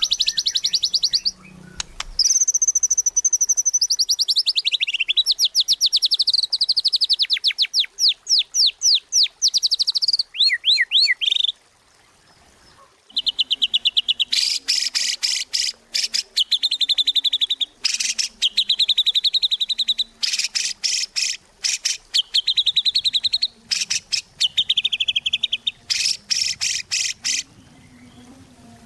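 White-rumped shama (murai batu) singing in full, loud song: long, fast trills and rapid strings of high repeated notes, some sweeping down and up in pitch, broken by a short pause about twelve seconds in.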